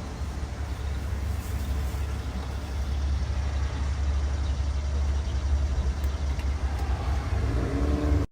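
Steady low rumble of a moving road vehicle, with a short pitched sound near the end.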